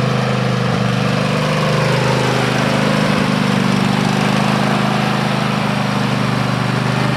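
Kohler 7000 Series engine of a Poulan Pro riding mower running steadily, holding an even speed.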